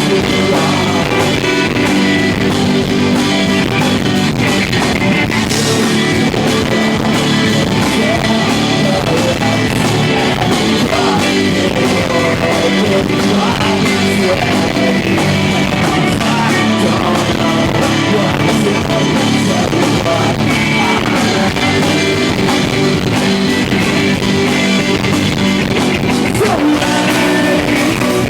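A rock band playing live with loud electric guitars, drums and singing, recorded from the crowd.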